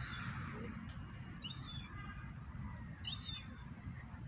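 A small bird chirping: short high calls, three of them about a second and a half apart, over a steady low rumble.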